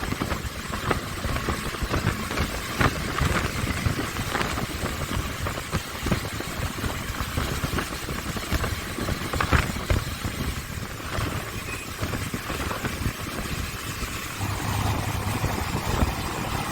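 Motorcycle engine running steadily, mixed with road and wind noise, with a few short clicks or knocks.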